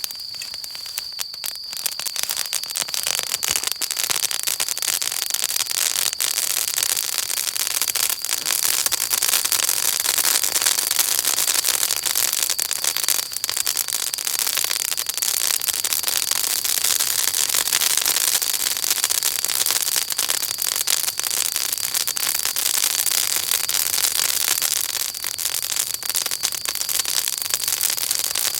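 Wood bonfire crackling and popping densely, with many sharp snaps, getting louder about two seconds in. A thin steady high whine runs underneath.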